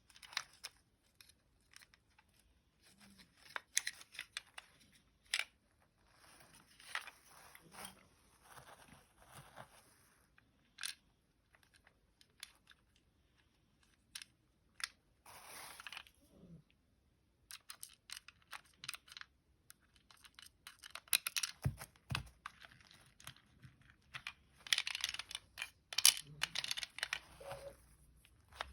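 Close handling noises of small plastic parts: irregular clicks, taps and brief rustling or scraping. The handling grows busier and louder in the last third, with a couple of sharp knocks.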